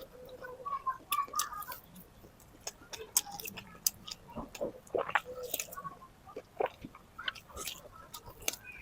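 A person chewing native chicken meat close to the microphone: irregular small wet mouth clicks and chewing sounds.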